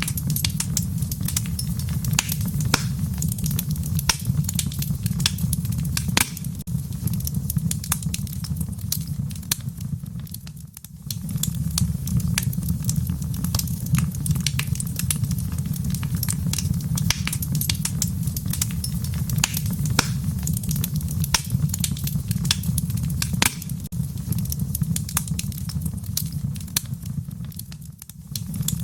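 Wood fire crackling in a fireplace: frequent sharp pops and snaps over a steady low rumble of the flames. The sound dips briefly twice, about ten seconds in and near the end.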